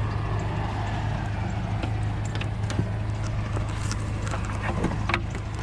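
Pickup truck engine idling steadily, with scattered light clicks and knocks over it.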